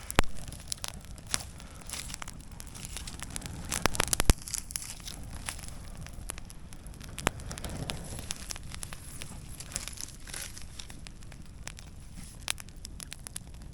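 Wood fire crackling with scattered sharp snaps, joined by a few loud knocks and clatters near the start and about four seconds in as a cooking pot is handled and set over the fire.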